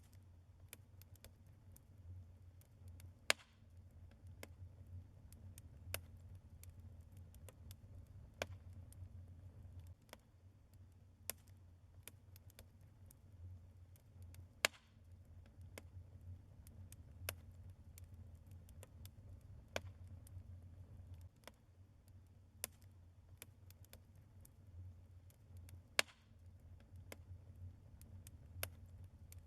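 Logs burning in a fireplace, crackling with irregular sharp pops and snaps, a few louder than the rest, over a low steady rumble of the fire.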